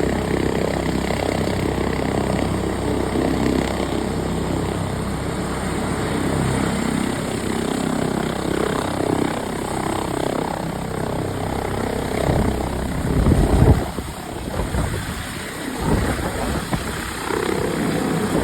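Airbus H145 rescue helicopter running close by, a dense, steady rotor and turbine noise. From about two-thirds through it turns gusty, with loud low rumbling surges and dips.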